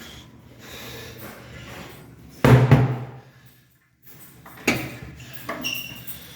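A restroom stall door banging: one loud knock with a short echo about two and a half seconds in, then a second, lighter knock and a brief squeak.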